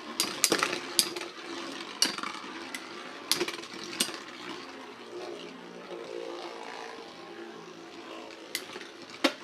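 Metal Beyblade spinning tops whirring in a stadium, with sharp clacks as they hit each other: a cluster of hits in the first four seconds and two more near the end.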